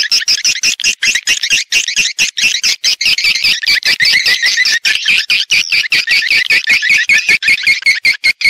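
Edible-nest swiftlets chirping and twittering in a dense, continuous chorus of rapid, high calls. This is a swiftlet-house lure recording of the birds' call and roosting sounds.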